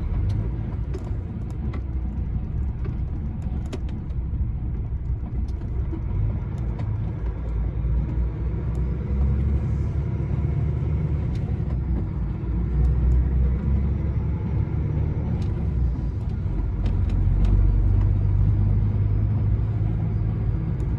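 Low, steady rumble of an articulated lorry's engine and road noise heard from inside the cab while driving. It swells louder about two-thirds of the way through, and a few faint clicks sound over it.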